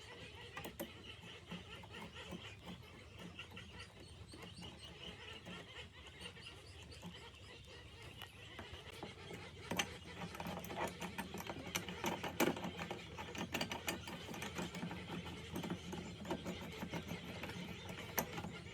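Faint scattered clicks and taps of hand work on metal parts over a low steady hum, growing busier about halfway through.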